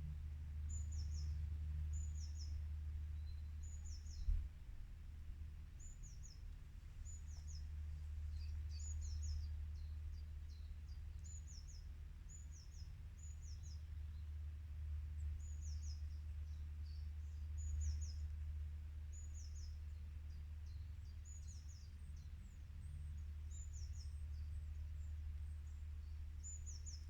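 A small bird repeating short, high chirps, about one every second or two, over a steady low rumble. A single thump sounds about four seconds in.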